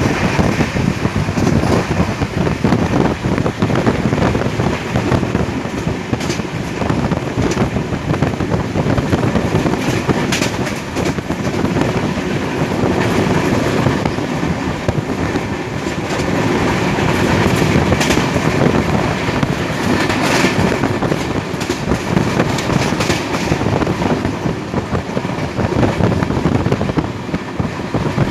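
Passenger train running at speed, its wheels clattering over rail joints with scattered sharp clicks over a steady rumble.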